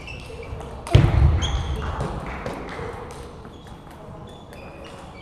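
Table tennis hall sounds: short high squeaks and light clicks of play, with a sudden loud bang about a second in that dies away over a couple of seconds.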